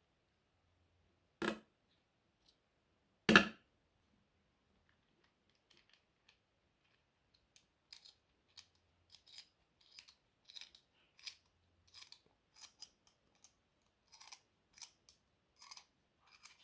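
Two sharp knocks, one about a second and a half in and a louder one a couple of seconds later, then a run of light, irregular clicks, roughly two a second, from small parts and tools being handled during a power tool's disassembly.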